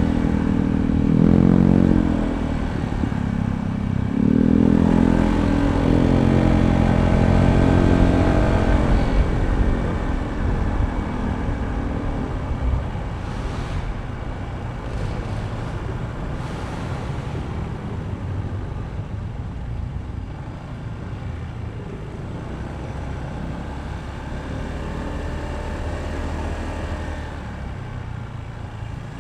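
Honda ADV160 scooter's single-cylinder engine pulling away, its note climbing in pitch twice in the first nine seconds, then easing off into a steadier rush of road and wind noise.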